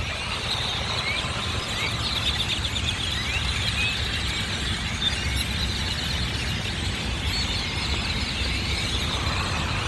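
Dense chorus of a very large flock of birds: countless short chirps and squeaks overlapping without a break, over a low rumble.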